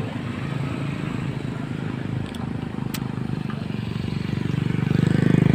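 Diesel tanker truck engine running with a fast, even throb, growing louder near the end as the truck comes closer.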